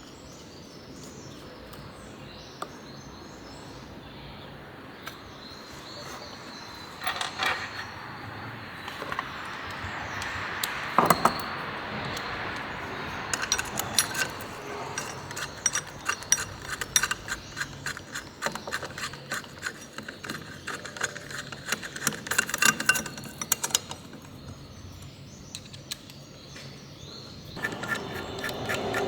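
Metal clinks and clicks of hand tools and small engine parts being handled during a motorcycle engine rebuild. They come in scattered bursts from several seconds in, thickest in the second half.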